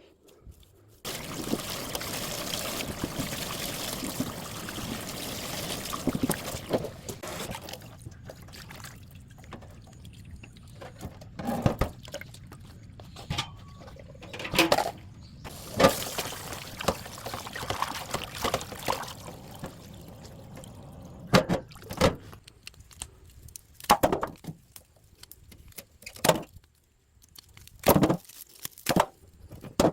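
Water pouring steadily for about seven seconds, then a series of separate splashes and knocks.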